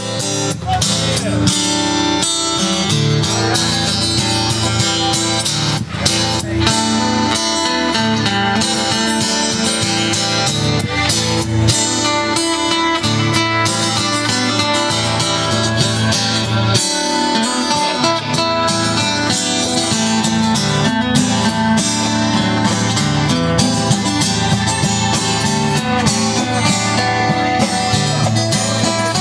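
Live band playing an instrumental rock jam: strummed and plucked guitars over drums and congas, fading in at the start.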